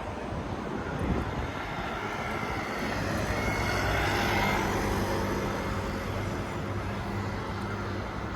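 A passing vehicle: its noise swells to its loudest about four seconds in and then fades, over a steady low engine hum.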